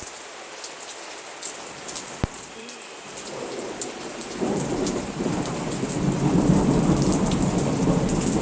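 Raindrops pattering and ticking on surfaces, then a low rumble of thunder that builds from about halfway through and grows louder.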